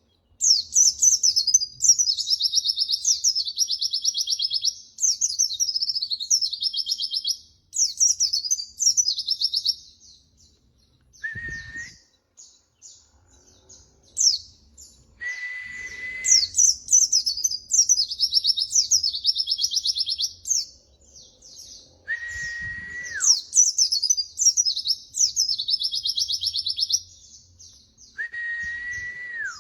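White-eye (pleci) singing: long runs of rapid, high twittering and trills in repeated bursts with short pauses between them.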